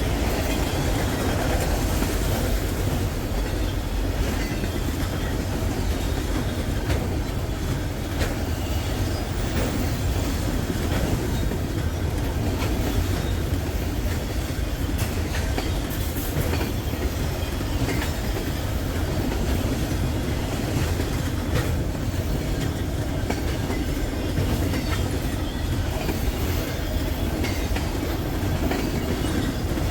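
Long freight train rolling past, a steady rumble of railcars with wheels clacking over the rail joints.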